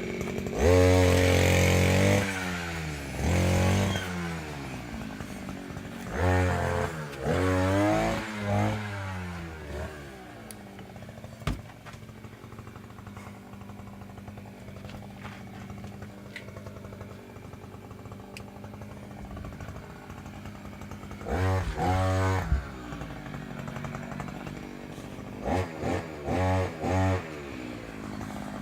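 Maxmat 43cc two-stroke brushcutter engine revved in short bursts several times, dropping back to idle between them, with a longer stretch of steady idling in the middle.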